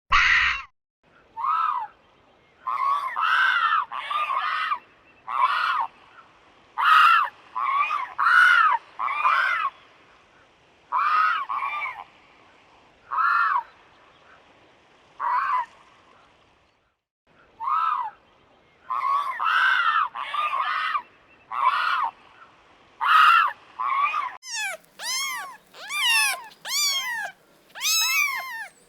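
An animal giving short arched calls about half a second long, over and over in irregular groups. About four seconds before the end, a cat takes over, meowing several times in a row.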